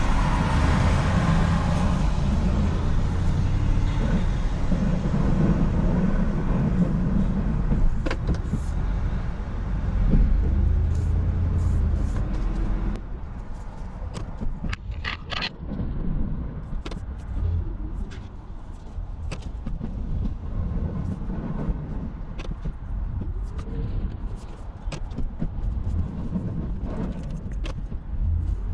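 Plow truck's engine running while it scrapes snow. It is loud for about the first twelve seconds, then drops off suddenly to a quieter run, with light clicks and ticks scattered through the rest.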